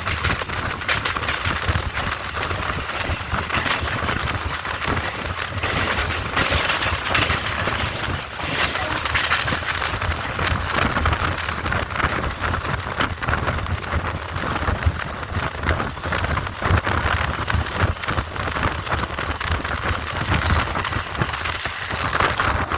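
Passenger train's coaches rolling past: a steady rumble with a dense rattle of wheels on the rails.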